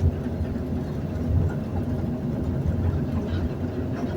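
Elevator car travelling in its shaft: a steady, noisy low rumble with a faint constant hum above it.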